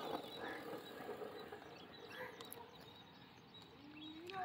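Faint outdoor quiet with a few short, scattered bird chirps, and a louder upward-sliding bird call near the end.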